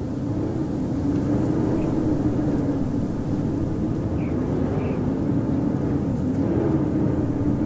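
Howling blizzard wind: a steady, deep rush of wind with a low moaning tone that wavers slightly in pitch.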